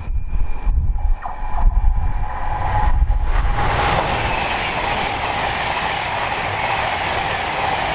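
A train passing at speed on a main line, its rush of wheel and air noise swelling from about three seconds in and holding, with a steady high whine. Strong wind buffets the microphone.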